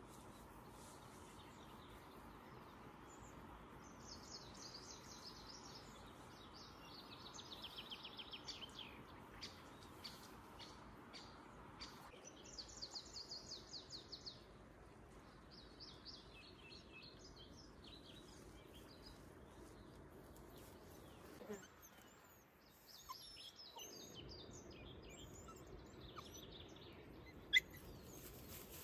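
Small songbirds singing faintly in short trilled phrases, with pauses between them. A single sharp click comes near the end.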